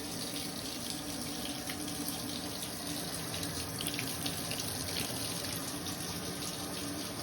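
Bathtub spout of a rain shower system running at full flow, water pouring steadily into the tub.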